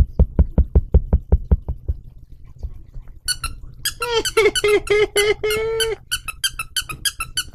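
Squeaky dog toy squeezed over and over: a run of short squeaks starting about three seconds in, turning faster and higher near the end. Before the squeaks, a quick run of soft low thumps lasts about two seconds.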